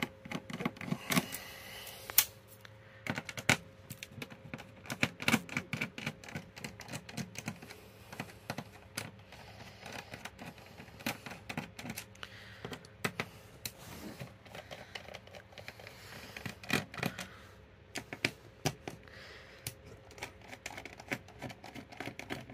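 Irregular small clicks, taps and rattles of hands working a TV's circuit board and plastic clips and connectors free, over a faint steady hum.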